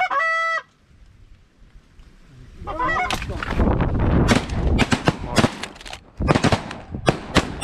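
Goose honks, two loud steady-pitched notes right at the start and more near the halfway point, then a rapid volley of shotgun blasts from several guns, about a dozen shots packed into the last four and a half seconds.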